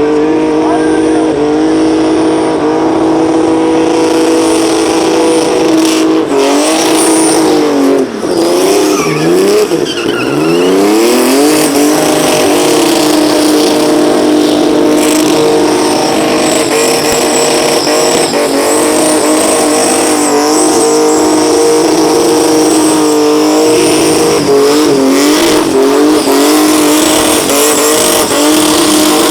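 Twin-turbo and supercharged 4-litre Barra six-cylinder engine in a Ford Cortina, held at high steady revs during a burnout with tyres spinning and squealing. About eight seconds in, the revs drop and climb back several times before settling again.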